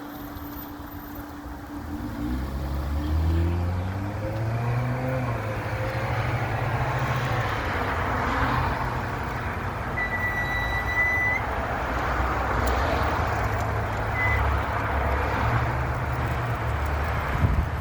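Road traffic at an intersection: a vehicle's engine pulls away about two seconds in, rising in pitch, then traffic runs on steadily. A short high beep sounds about midway.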